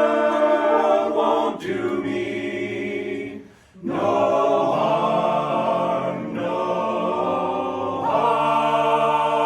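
Men's a cappella ensemble of tenors, baritones and basses singing sustained chords in close harmony. About three and a half seconds in the sound breaks briefly, then the voices come back in and hold one long chord.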